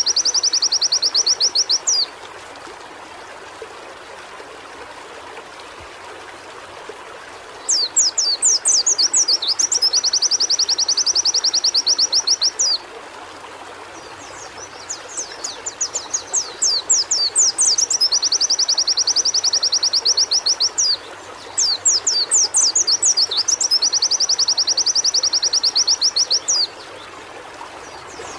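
White-eye (pleci) singing in repeated bursts of high, fast trilling. Each burst opens with a few sweeping notes, then runs into a rapid even trill for several seconds before stopping short. Steady hiss throughout.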